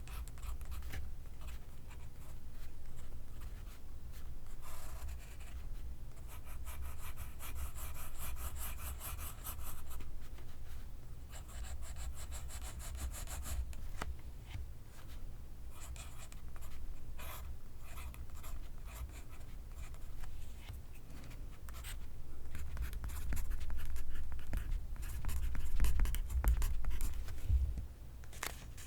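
Pencil writing on paper: graphite scratching in short strokes, with a stretch of quick, evenly repeated strokes a quarter of the way in.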